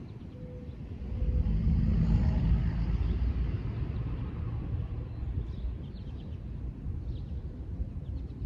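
Wind buffeting the phone's microphone: a low rumble that builds about a second in, is strongest a couple of seconds later, then eases to a steadier blustering.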